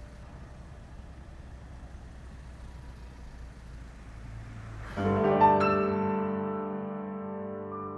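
A low steady hum. About five seconds in, a piano chord is struck loudly, several notes together, and rings on as it slowly fades.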